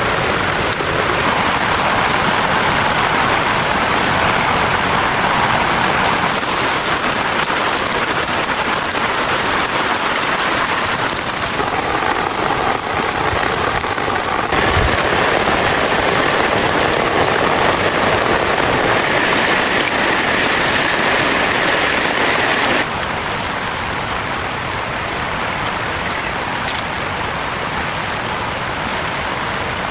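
Heavy rain falling steadily in a dense, even hiss. Its character changes abruptly three times, about 6, 15 and 23 seconds in.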